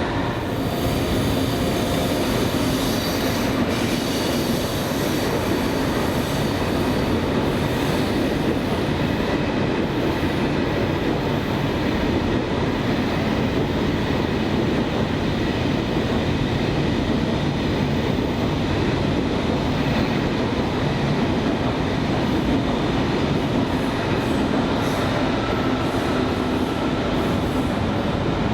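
A train running along the tracks through a railway station, with a steady rumble and rail noise that holds at an even level throughout.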